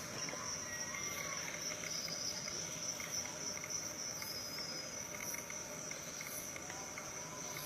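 Forest ambience: a steady, high-pitched insect chorus, with a few faint, short, arching bird calls.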